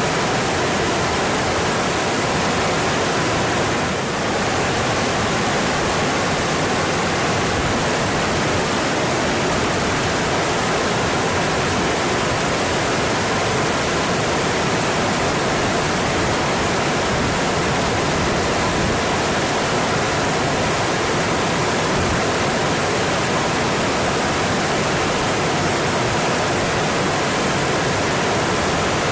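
Mountain stream rushing steadily over rocks, a dense unbroken water noise.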